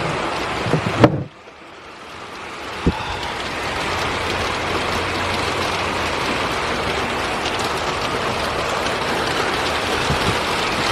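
Heavy rain pouring down in a steady hiss. About a second in there is a sharp knock, the sound drops away, then swells back up over the next few seconds, with one more short click soon after.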